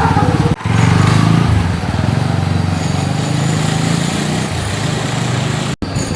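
TVS Apache RTR 200 4V's single-cylinder engine running while the motorcycle is ridden, its pitch shifting about one and a half seconds in. The valve tappet clearance has just been set to cure a tappet noise.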